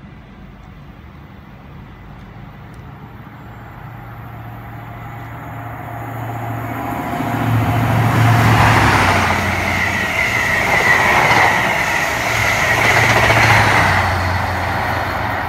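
High Speed Train (InterCity 125) passing close by: the hum of a Class 43 diesel power car and the rush of wheels on rail build over several seconds and stay loud as the coaches go past. A second swell of engine hum comes near the end, and a high whine sits in the middle.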